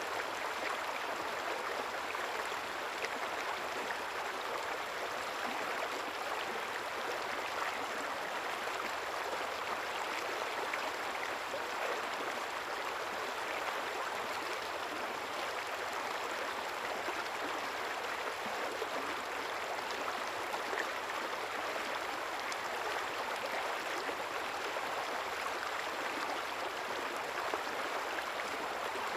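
River water running and babbling steadily, a continuous even rush with fine trickling detail.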